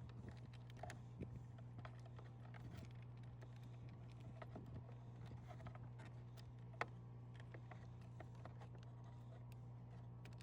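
Faint, scattered clicks and taps of plastic side-mirror parts being handled and fitted together by hand, with one sharper click about seven seconds in, over a steady low hum.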